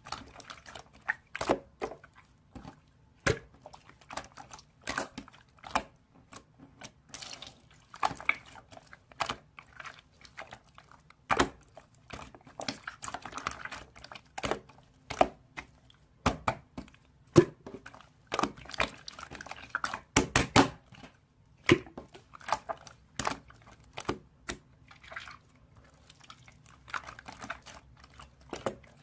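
Irregular clicks and taps, with short bursts of rustling in between.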